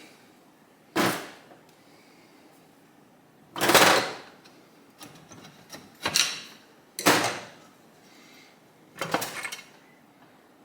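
Five separate clunks and clatters of metal engine parts and tools being handled and set down on a workbench during a motorcycle engine teardown, each dying away within about half a second.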